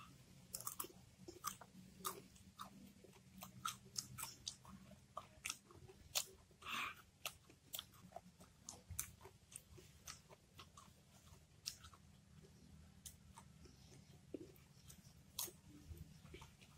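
Close-up chewing and crunching of young, unripe mango slices dipped in rujak chili sambal, heard as a string of irregular crisp crunches.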